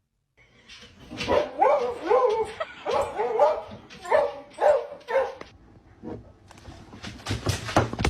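A dog giving a quick run of short, whiny barks, about nine in four seconds, each bending up and down in pitch. A few sharp knocks follow near the end.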